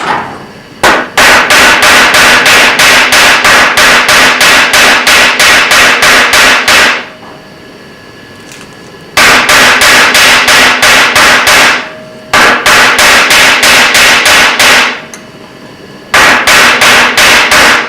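Ball peen hammer rapidly striking a heated metal rod end on an anvil, about three or four blows a second, in four runs with short pauses between them. The rod end is being forged down to a taper.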